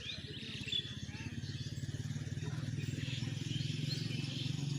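A small engine running steadily, a low rapid pulsing that grows a little louder, with birds chirping.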